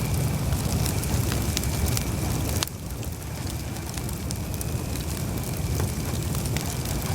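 Campfire burning: a low rumble of flames with sharp crackles and pops from the burning wood. The overall level drops suddenly a little over a third of the way in.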